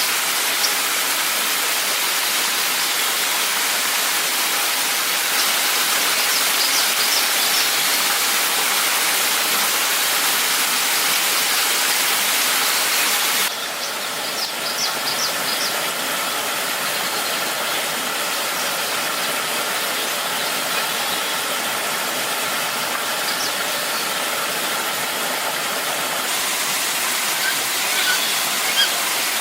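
Steady rushing water noise of a waterfall, with a few faint high ticks over it. The level drops abruptly about halfway through and shifts again near the end.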